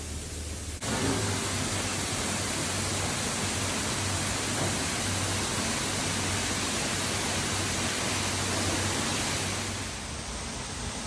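Waterfall: a steady rush of falling water. It jumps abruptly louder about a second in and eases slightly near the end.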